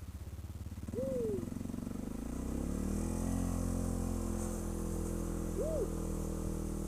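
ATV engine running under load, revving up about two seconds in and then holding high revs, pulling through deep snow. Two short hoot-like calls sound over it, one about a second in and one near the end.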